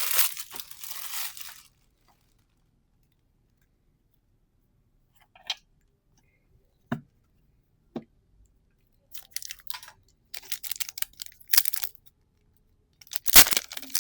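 Card-game booster pack wrapper crinkling and tearing as it is handled and opened. The crinkling comes in bursts at the start and again over the last few seconds, with a few soft taps in between.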